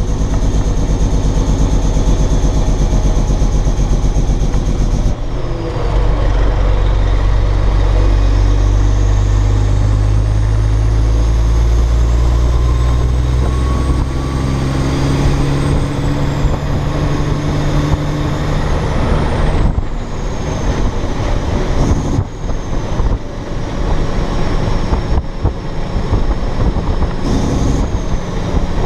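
Caterpillar C15 diesel in a dump truck pulling under load, its pitch climbing slowly as it winds up through a gear. The sound drops off about five seconds in and again at about twenty seconds, where the 13-speed Eaton Fuller is shifted without the clutch.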